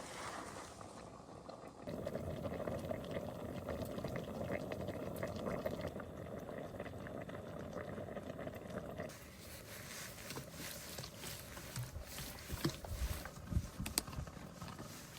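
Pot of pork kimchi stew bubbling on a camp stove, a steady rushing bubbling that starts suddenly about two seconds in and stops suddenly after about seven seconds, followed by scattered light clicks and knocks.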